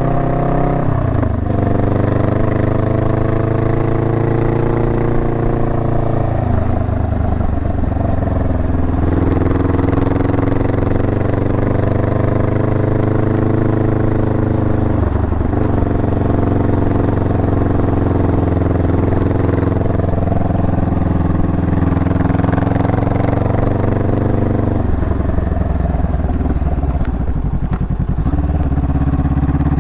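Honda Rebel 500's parallel-twin engine running steadily under way. Its note changes pitch several times: about a second in, around a quarter of the way through, about halfway, and again near the end.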